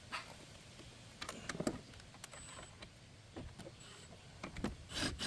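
Faint, scattered clicks and light metal taps of hand tools at irregular intervals as brake hardware is tightened.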